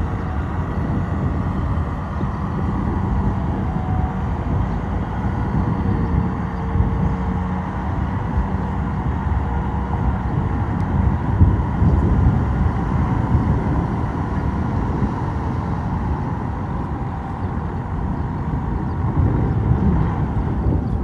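Heavy diesel earthmoving machinery running steadily under load, a continuous low engine drone.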